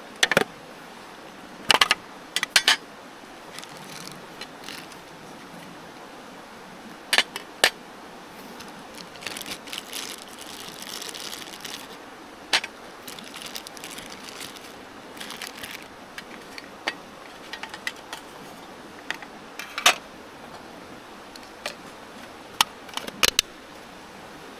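Scattered sharp clicks and knocks of camp gear being handled, some in quick pairs, over the steady rush of a mountain stream.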